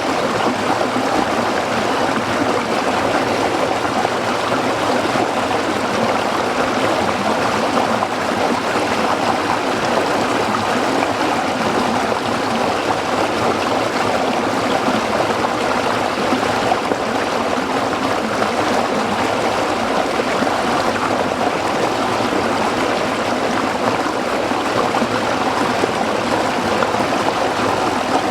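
A small stream of water flowing over rocks, a steady babbling rush without breaks.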